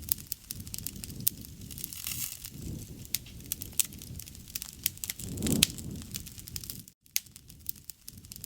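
Wood fire crackling, with frequent sharp snaps and pops over a low rumble of flame. A louder swell of flame comes about five and a half seconds in, and the sound drops out for an instant about seven seconds in.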